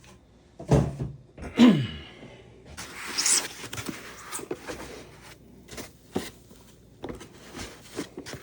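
Cardboard packaging box being handled and pushed aside: two loud thumps about a second in, a scraping rustle around three seconds, then lighter knocks and taps.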